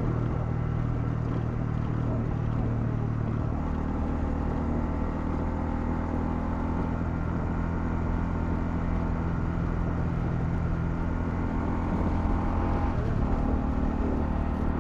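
Honda CL250 motorcycle engine running steadily while riding, under a constant rush of road noise. About thirteen seconds in the engine note briefly dips and then picks up again.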